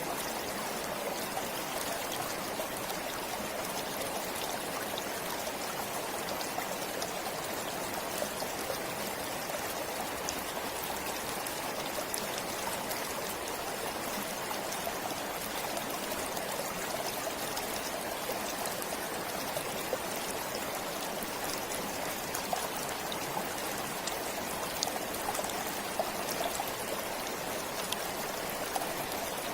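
Forest stream flowing: a steady rush of water with small splashes and trickles.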